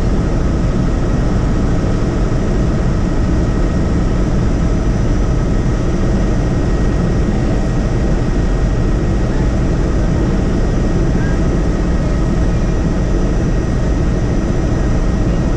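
Helicopter in flight: a steady, loud rotor and engine noise with a few faint, steady whining tones above it.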